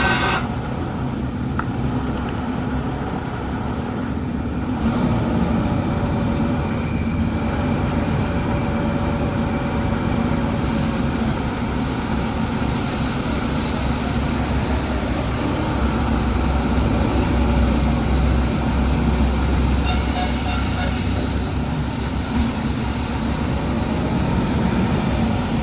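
Heavy truck running steadily, its pitch slowly rising and falling.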